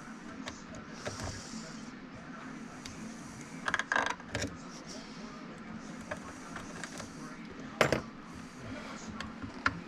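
Metal clinks and knocks from hand tools and small chainsaw parts being handled during disassembly, with a cluster of knocks a little under four seconds in and the loudest knock near eight seconds. A steady low hum runs underneath.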